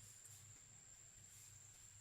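Near silence: a faint steady high-pitched tone over a faint low hum.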